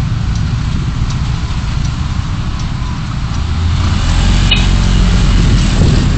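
Car driving noise picked up by a dashcam: a steady low rumble of engine and road that grows louder about four seconds in, with a brief high squeak shortly after.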